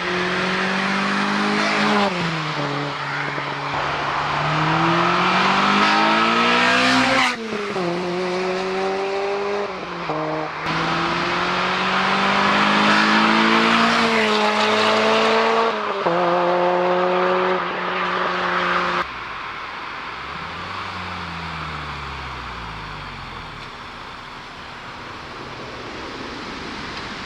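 Honda Civic Type R EP3's 2.0-litre i-VTEC four-cylinder through a Megan Racing muffler, revving up hard several times with sudden drops in pitch between pulls. In the last third it is quieter and its pitch falls steadily as it slows or moves away.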